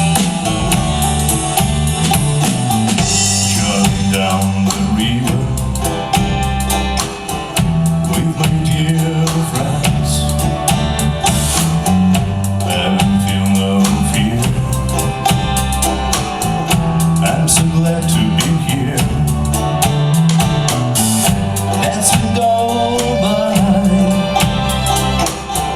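Indie folk band playing a song live, with a drum kit keeping a steady beat under guitars and bass.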